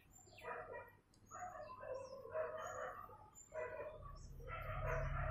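Birds calling in the background, domestic fowl among them, with short high chirps throughout. A low hum comes in about four seconds in.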